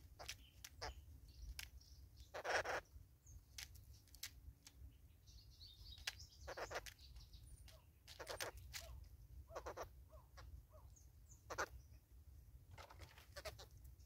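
Birds feeding at a plastic-bottle seed feeder, faint: scattered short pecking clicks and a few brief harsh calls, the loudest about two and a half seconds in.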